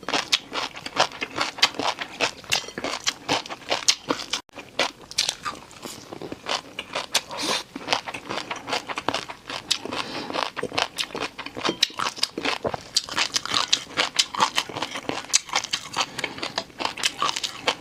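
A person biting and chewing crunchy noodles close to the microphone: a dense, irregular run of sharp crackling crunches, with a momentary break about four and a half seconds in.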